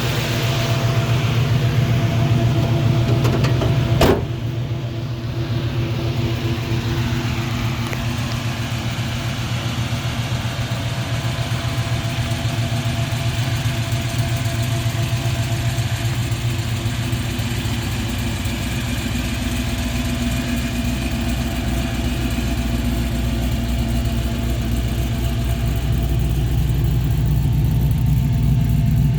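Fuel-injected 6.0-litre LQ9 V8 with long-tube headers and a Magnaflow stainless exhaust idling steadily with the air conditioning on, under no overheating. A single sharp click about four seconds in.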